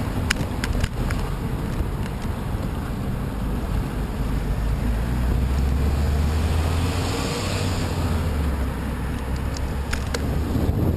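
Wind buffeting the microphone while riding a bicycle into a headwind: a steady low rumble that swells about five seconds in, with a few light clicks near the start and again near the end.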